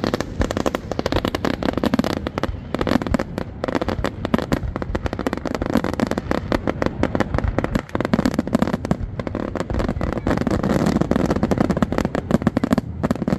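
Fireworks display: aerial shells bursting in quick succession, many overlapping bangs a second with no break.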